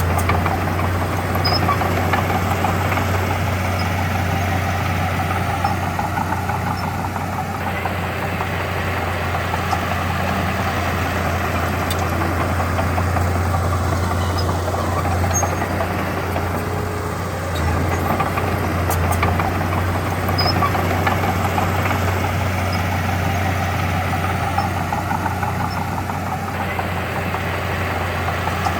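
Heavy diesel engine of earthmoving machinery running steadily, with its load rising and easing every several seconds.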